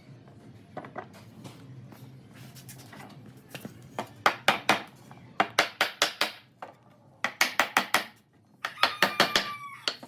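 Four short runs of rapid sharp knocks, about eight a second. A rooster crows faintly near the end.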